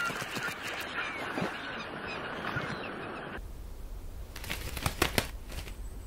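A flock of birds calling over one another. A little past halfway the calls cut off abruptly to a low rumble, with a few sharp clicks near the end.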